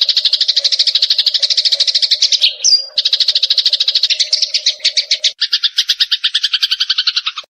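Eurasian tree sparrows chattering: a fast, unbroken string of short chirps, roughly ten a second. The string breaks briefly near three seconds in, switches to a different chirp pattern about five seconds in, and cuts off just before the end.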